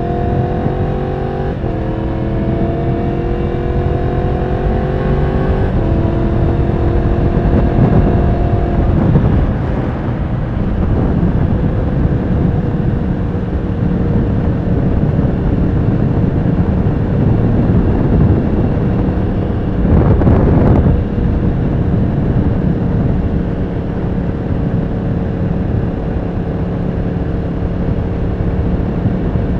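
Yamaha R1's inline-four engine accelerating through the gears: its pitch climbs and drops back at upshifts about two and six seconds in, then climbs once more before settling into a steady cruise under wind noise. A brief louder rush of noise comes about twenty seconds in.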